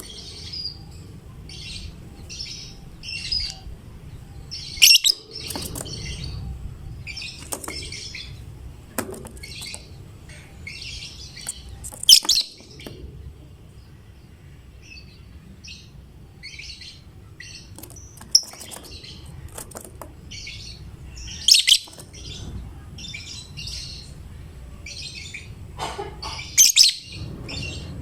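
Lovebird chattering: a steady run of quick high chirps, broken by four louder, shrill calls spaced several seconds apart.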